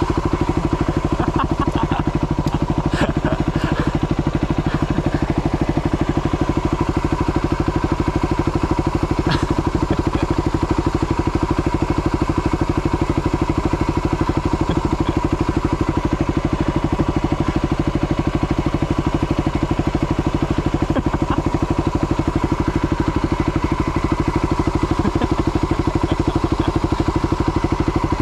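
Yamaha WR250 dirt bike's single-cylinder engine running steadily at one unchanging speed, with a few light clicks in the first few seconds and one sharper click about nine seconds in.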